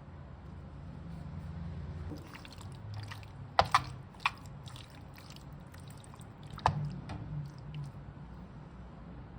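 Wet kitchen food-preparation sounds, such as mixing or pouring in a bowl, over a steady low hum. There are sharp clinks: three in quick succession about three and a half to four and a half seconds in, and one more near seven seconds.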